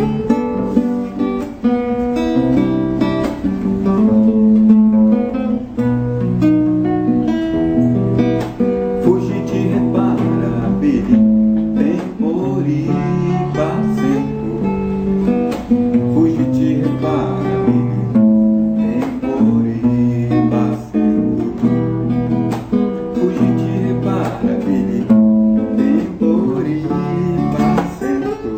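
Acoustic guitar music: plucked and strummed notes over a repeating bass line.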